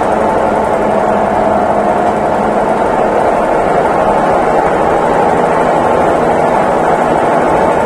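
Consul Facilite 11 kg top-load washing machine running with a loud, steady mechanical whir.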